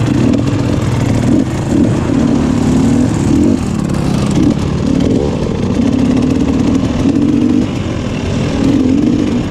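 Motocross bike engine revving, its pitch rising and falling repeatedly with short throttle blips.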